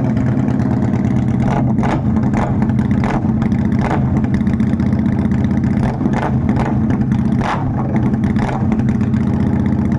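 Yamaha SRV250 air-cooled V-twin idling steadily through a newly built custom exhaust made from thicker, slightly wider and longer pipe. Irregular sharp clicks sound over the steady exhaust note.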